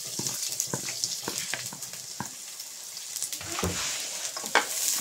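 Chopped shallots, garlic and ginger sizzling and crackling in hot oil in a large aluminium pot. Near the end a spatula stirs and scrapes against the pot, giving a few louder knocks.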